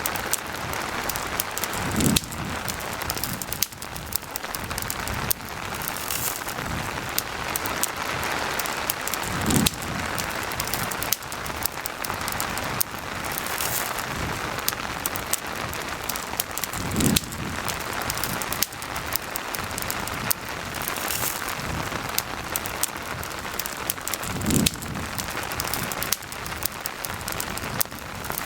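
Steady rain over a crackling campfire: an even hiss of rain with frequent sharp little pops. There are four low thuds, evenly spaced about seven seconds apart.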